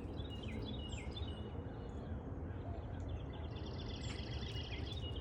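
Wild songbirds chirping, with short falling calls early and a rapid trill starting about three seconds in, over a steady low rumble of outdoor background noise.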